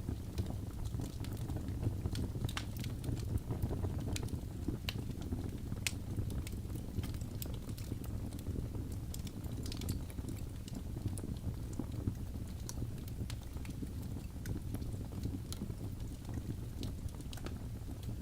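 Wood logs burning in a fireplace: a steady low rumble of flame with irregular sharp crackles and pops, more frequent in the first half.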